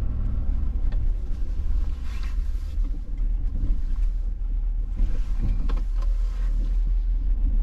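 Plow truck running, heard from inside the cab: a steady low engine and road rumble, with short harsher rattling noises about two seconds in and again around five to six seconds in.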